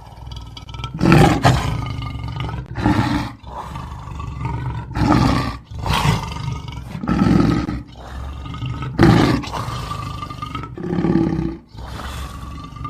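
A big cat roaring repeatedly: a series of loud, rough roars and grunts, one to two seconds apart.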